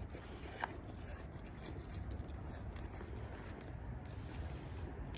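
A deer chewing apples, with faint crunches and one sharp click over a steady low rumble.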